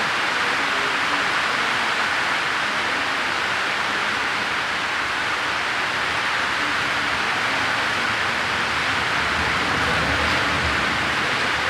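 Heavy rain pouring steadily, a dense even hiss of rainfall. A low rumble builds in about ten seconds in.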